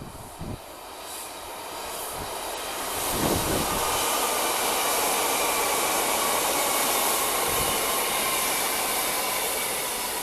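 A train running along the track past the platform: the rush of wheels on rail builds over the first three seconds and then holds steady and loud, with a faint thin high tone riding above it.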